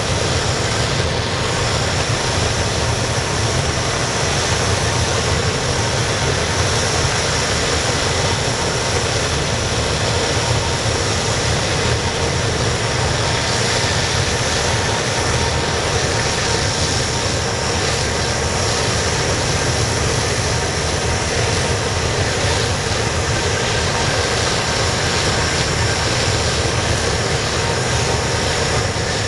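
Waste-oil burner of a furnace running steadily, a dense, even rushing noise of atomised oil and air burning, with no change in its pace.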